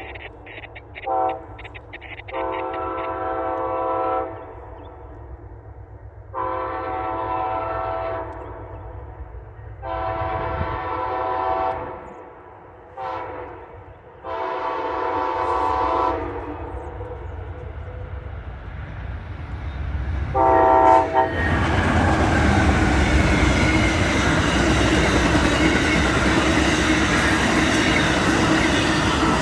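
Amtrak Floridian passenger train approaching and sounding its locomotive horn in a series of long and short blasts, about seven in all. About 21 seconds in, the horn stops and the train goes by close and loud with a steady rushing rumble.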